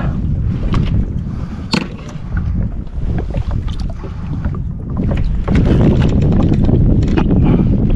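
Wind buffeting the microphone in a steady low rumble, with a few sharp clicks; the wind grows stronger about five and a half seconds in.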